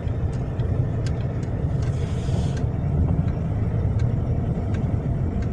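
Car cabin noise while driving on a snowy road: a steady low rumble from the engine and the studded winter tyres, with faint scattered ticks and a brief hiss about two seconds in.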